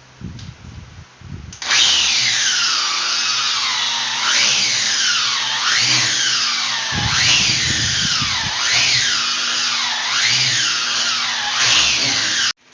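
Handheld electric power tool running on the marble, starting about one and a half seconds in after a few knocks. Its motor pitch repeatedly sags and snaps back up, about every second and a half, then stops abruptly just before the end.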